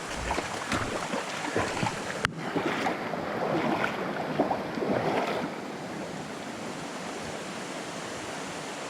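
Steady rush of creek water, with short irregular sounds through the first five seconds while a hooked jungle perch is fought; after that only the even rush of water.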